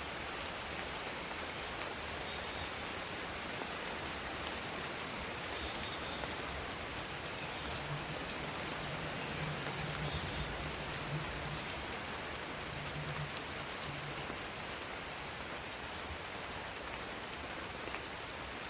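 Steady rain falling, with a continuous high-pitched cricket trill running through it that breaks off briefly about two-thirds of the way in. A low hum comes and goes in the middle.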